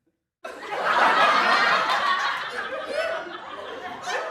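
People laughing, several voices at once with some talk mixed in, cutting in abruptly about half a second in after a moment of silence.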